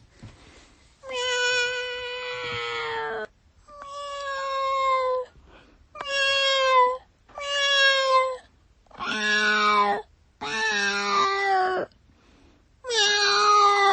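Domestic cat meowing over and over: seven drawn-out meows with short pauses between them, the first one the longest.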